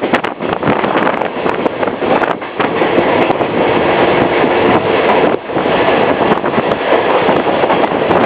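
Copper Canyon passenger train running along the track, heard from on board: a steady loud rush of wheel and rail noise with scattered light clicks.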